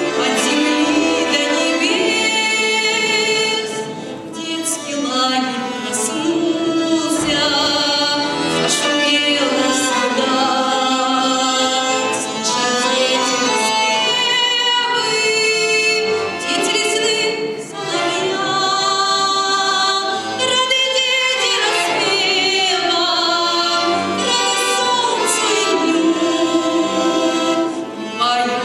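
A girl singing a song solo, her voice wavering on held notes, over instrumental accompaniment.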